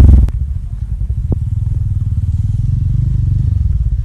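Motorcycle engine running at low revs, a rapid even putter that drops in level a moment in and then holds steady.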